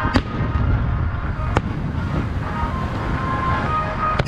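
Aerial firework shells bursting high overhead: a sharp bang just after the start, another about a second and a half later, and a third at the very end, over a steady low rumble.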